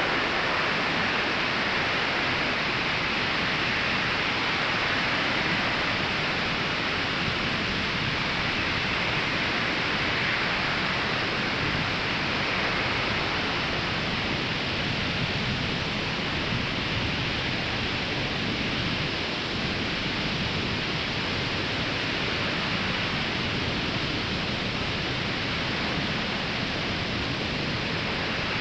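Ocean surf breaking and washing onto a sandy beach, a steady rushing wash with no single wave standing out; it is a little fuller in the first half.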